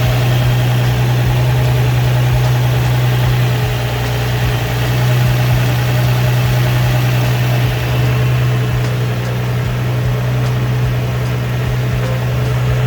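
Nissan VQ35DE V6 idling steadily just after a rod bearing replacement; the engine sounds good, with no rod knock yet.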